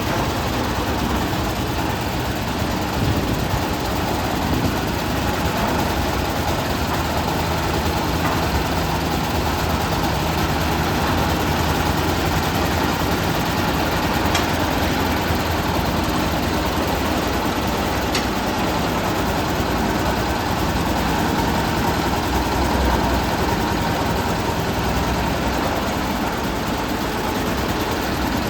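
A 440-model concrete mixer machine running steadily, its engine giving an even, unchanging drone.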